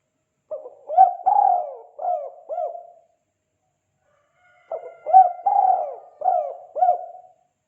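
Spotted dove (tekukur) cooing its 'kuk 2' call. Two phrases of four or five low coos each, the second starting a little over halfway through.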